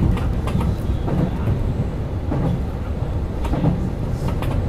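Keio 5000 series electric train running, heard from inside the leading car: a steady rumble of wheels on the rails with a few irregular clacks as the wheels pass over rail joints.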